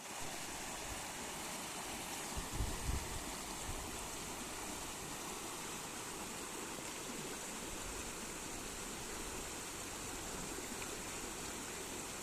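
Snowmelt-fed river rushing steadily, a constant even roar of flowing water. A few brief low thumps about two and a half seconds in.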